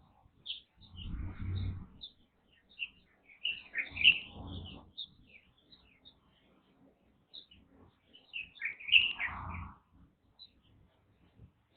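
Light-vented bulbuls and Japanese white-eyes giving many short, high chirps. Three bursts of low rumble come in about a second, four seconds and nine seconds in.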